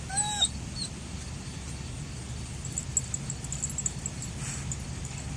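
A dog gives one short, high whine about a quarter of a second in, rising and falling in pitch, followed by a faint higher squeak; a steady low rumble sits underneath throughout.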